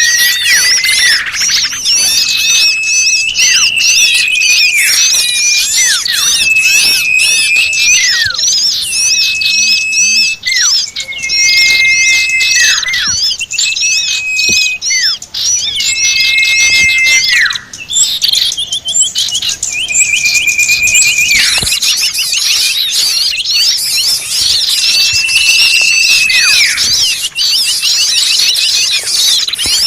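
Bird-lure recording of a noisy flock of small birds: a dense, busy chatter of many high chirps, with a held whistled note that drops sharply at its end, repeated every couple of seconds.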